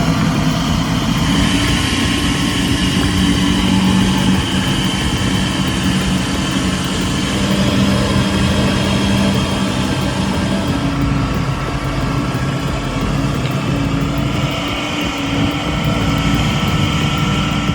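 Heavy haulage truck's diesel engine running steadily, with a steady high whine above it; the engine note shifts about eleven seconds in.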